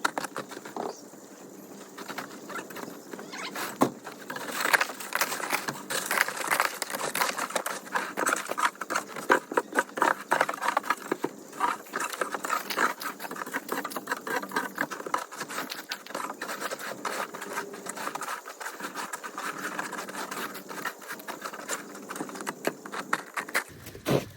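Snow shovel scraping and crunching through packed sleet and ice on front steps, in quick, irregular strokes. The sleet is starting to soften.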